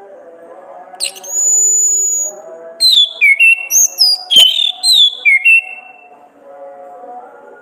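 Orange-headed thrush (anis kembang) song: one long high whistle about a second in, then a quick run of varied whistled notes lasting about three seconds. Soft backing music plays underneath throughout.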